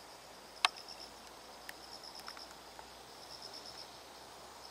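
Insects chirping in a steady, rapidly pulsing high trill, like crickets. A single sharp click stands out about half a second in, with a few fainter ticks after it.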